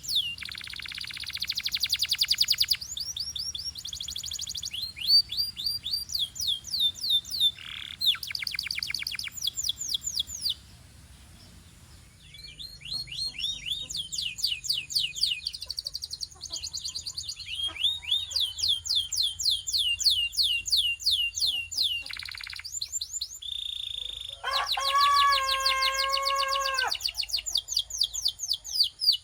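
Belgian canary singing a long song of trills: runs of fast, repeated high notes that fall in pitch, broken by a short pause about ten seconds in, with a lower, fuller rolling phrase near the end.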